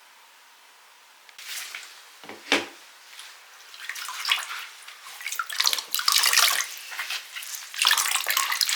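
Water splashing and running in irregular spurts while a window is washed, starting about a second in and growing busier towards the end, with a single knock about two and a half seconds in.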